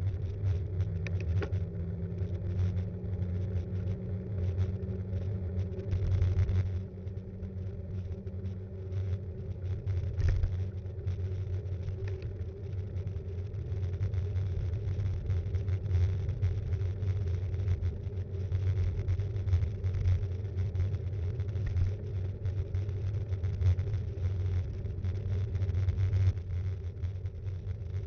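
Steady low rumble with many small rattles and knocks throughout: road vibration and wind picked up by an action camera mounted on a Btwin Rockrider 5.1 mountain bike while riding.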